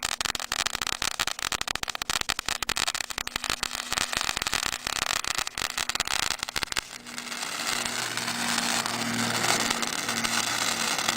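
Ground firework crackling: a dense run of rapid sharp pops and crackles for about seven seconds, then turning into a steadier hiss.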